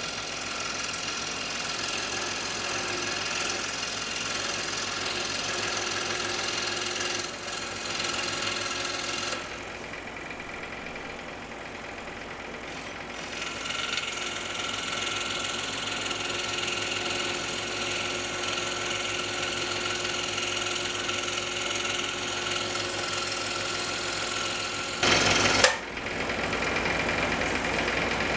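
Scroll saw running and cutting through wood: a steady motor buzz with the blade's rapid up-and-down rasp. It goes quieter for a few seconds about ten seconds in, and a brief loud clatter comes near the end.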